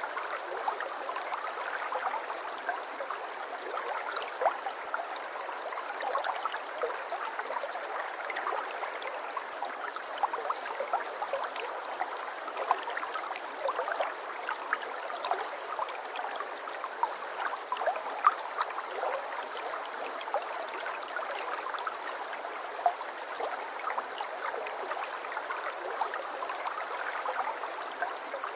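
Babbling brook: shallow water running over stones, a steady gurgling stream with many small splashes and plinks.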